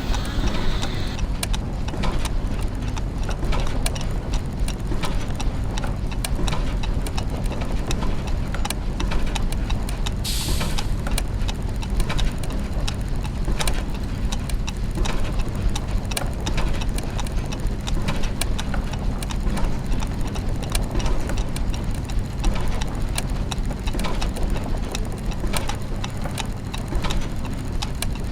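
Clockwork gears and mechanisms running: dense, irregular ticking and clicking over a steady low machine hum, with a short hiss about ten seconds in.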